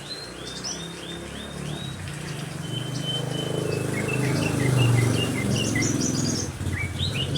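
Several songbirds singing together. For the first two seconds one repeats a quick series of arched high notes at about two a second. Then mixed chirps and a short held whistle follow, over a low rumble that swells in the middle.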